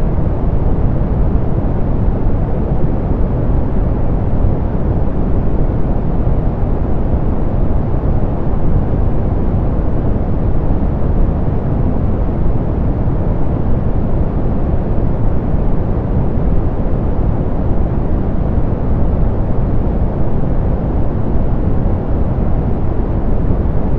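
Steady soft pink noise, a constant even hiss weighted toward the low end, with its highs rolled off.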